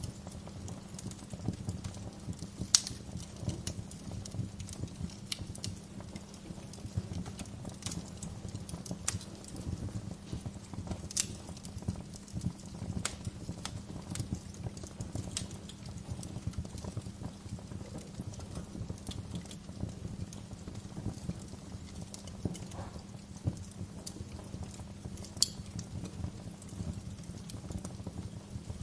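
Wood fire in a fireplace crackling steadily, with scattered sharper pops; the loudest come about three seconds in, around eleven seconds, and near the end.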